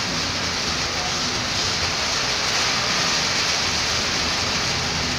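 Heavy rain pouring steadily, an even hiss, with the low hum of road traffic underneath.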